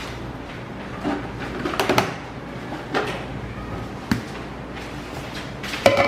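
A few scattered light knocks and clicks of dishes and utensils being handled while pancake batter is mixed.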